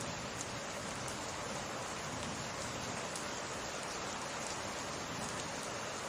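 Steady summer rain falling, an even hiss of rain with scattered faint drop ticks.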